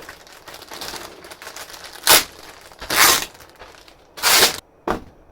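Crinkling and rustling as material is handled, with four sharper, louder rustles about two, three, four and five seconds in.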